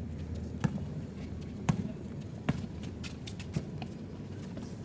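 A basketball bouncing on the court during play: a few sharp, irregularly spaced bounces over the game's low background noise.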